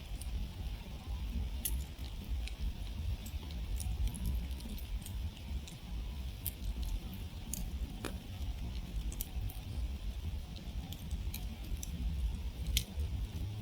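Wood campfire crackling, with irregular sharp pops and snaps over a steady low rumble. There is a stronger pop about eight seconds in and another near the end.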